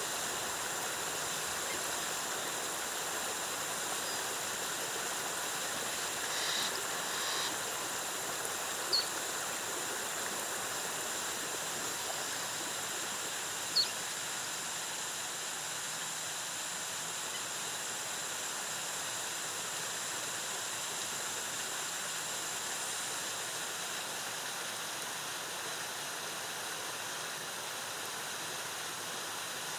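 Jungle waterfall cascading steadily, an even rush of falling water with a steady high hiss. Two short, high chirps stand out briefly, about 9 and 14 seconds in.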